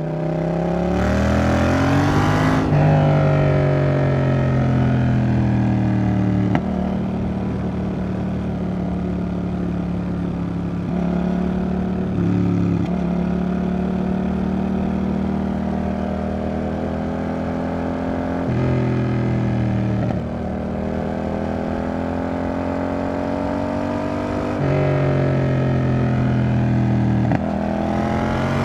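Yamaha XSR700's parallel-twin engine breathing through an aftermarket Roadsitalia exhaust, under way: it revs up hard with a rising pitch for the first couple of seconds, drops sharply on an upshift, then holds steadier revs with several further shifts and short pulls through the rest. Wind noise rises with the opening acceleration.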